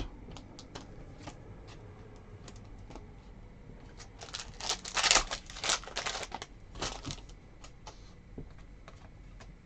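Trading cards being handled with light scattered clicks, then a couple of seconds of crinkling and tearing as a foil card pack is torn open, about halfway through.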